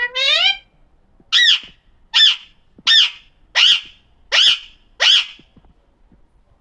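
Alexandrine parakeet (pahadi parrot) calling: one longer rising call, then six short high-pitched calls at an even pace, about one every three-quarters of a second.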